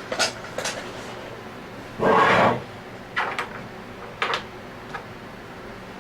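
Rubbing strokes of the scroll of an Anest Iwata scroll vacuum pump being wiped clean, a few short irregular passes, the loudest and longest about half a second long a little after two seconds in.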